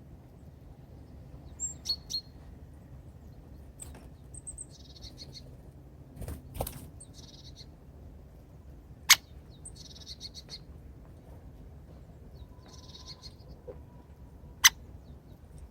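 Small songbirds at a winter feeder giving short, high chirping calls in scattered bursts. Two single sharp knocks, the loudest sounds, come about nine seconds in and near the end.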